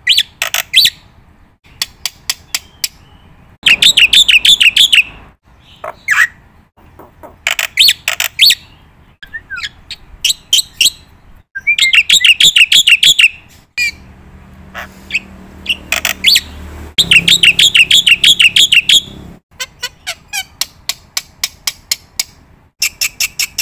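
A bird singing close up: loud runs of rapid chirps and warbling trills in phrases of a second or two, with short pauses between them.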